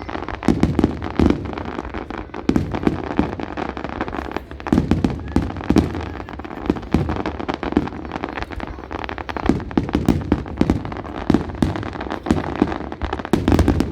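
Fireworks going off: many sharp bangs and pops in quick irregular succession over continuous crackling.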